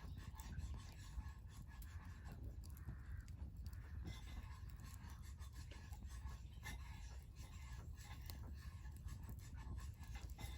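Wood campfire crackling, with faint scattered pops and snaps over a steady low rumble.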